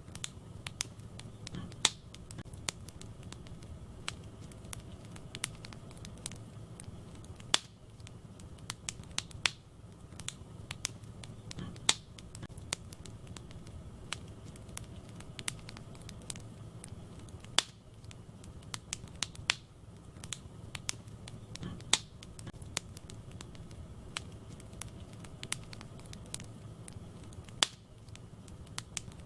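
Wood fire crackling in a fireplace: irregular sharp pops and snaps of burning logs, a few much louder than the rest, over a low steady rumble of the flames.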